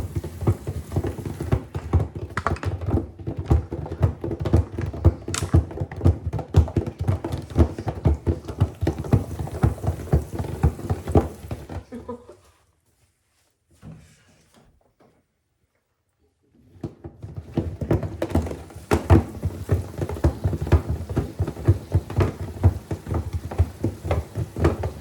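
LG WM6700HBA front-load washer tumbling a wash with a calculator inside: an irregular run of knocks and thunks as the calculator hits the drum, over the low churn of the wash. The sound cuts out for about four seconds midway, then the tumbling resumes.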